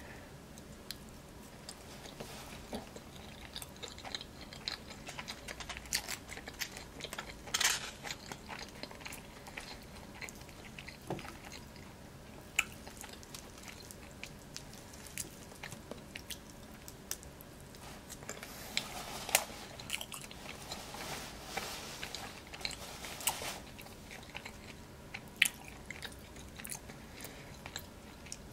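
Close-miked chewing of poutine and fries, with many small wet mouth clicks. There is a louder burst of bites about eight seconds in and another cluster around twenty seconds in.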